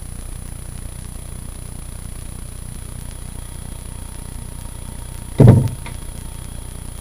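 A steady low rumble with one heavy, dull thump about five and a half seconds in.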